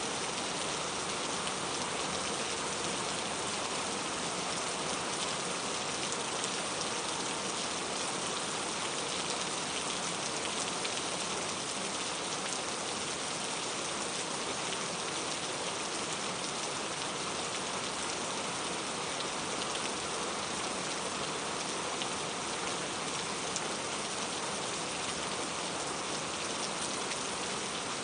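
Steady rain falling on a surface: an even hiss of many fine drops that holds at one level throughout.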